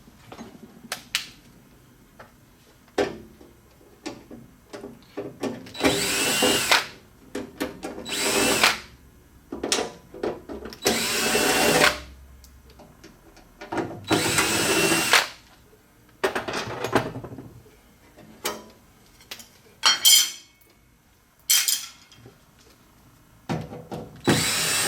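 Power drill-driver with a Phillips bit running in short runs of about a second, six times, each whine rising and falling in pitch as the motor speeds up and slows, backing out screws. Light clicks and clatter of small metal parts between the runs.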